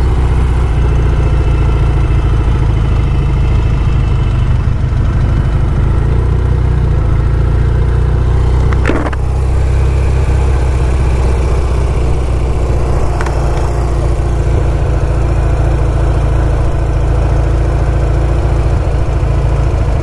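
1974 Norton 850 Commando's air-cooled parallel-twin engine running under way, a steady low drone with a brief dip in level about halfway through.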